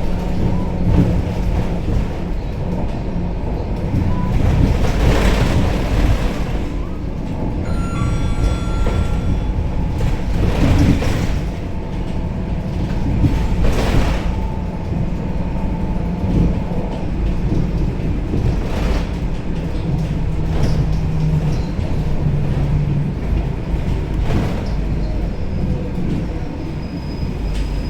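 Scania K270UB city bus heard from inside the cabin: its five-cylinder diesel engine runs under a steady heavy rumble of road and body noise, with several brief knocks and rattles. A short beep-like tone sounds about eight seconds in.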